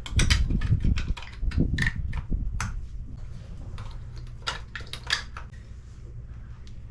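Irregular metallic clicks and knocks of hand tools tightening the nuts on a marine toilet base, over a low steady hum.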